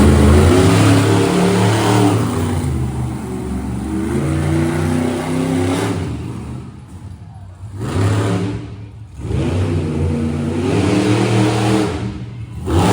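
Monster truck engine revving hard in repeated surges, with two short lulls past the middle before it revs up again.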